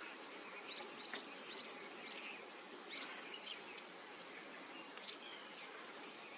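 Insects trilling in a steady, high-pitched unbroken chorus, with a few faint short chirps over it.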